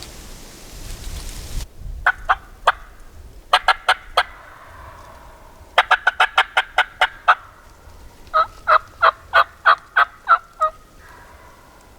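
Turkey yelping in four series of short, evenly spaced notes, the third series fast. Before the yelps, a rushing noise stops abruptly about one and a half seconds in.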